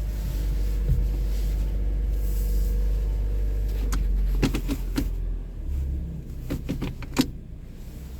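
2023 Toyota Corolla LE's four-cylinder engine idling steadily just after a cold start, a low even hum. In the second half there are several sharp clicks and knocks, and about five seconds in the hum drops noticeably quieter.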